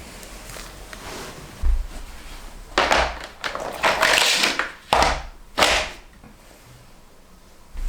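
Handling noises from objects being worked by hand: a thump about two seconds in, a couple of seconds of loud scraping, then two sharp knocks close together, before it goes quieter.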